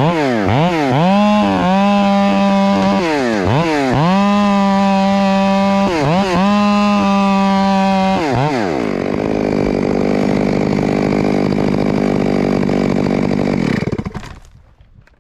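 Chainsaw blipped up and down, then held at full throttle in several long cuts with short dips between them. About eight seconds in it drops back to idle, and it cuts out near the end.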